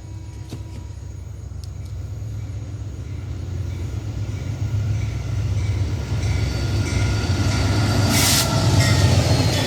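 Amtrak train 42's diesel locomotive approaching, its low engine rumble growing steadily louder. A brief hiss comes about eight seconds in.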